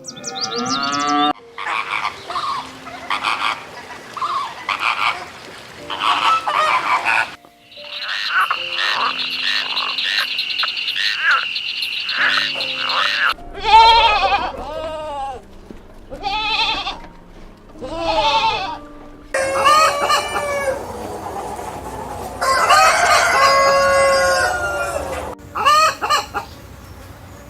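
A run of animal calls: rapid croaking calls in the first half, then chickens clucking and roosters crowing in the second half.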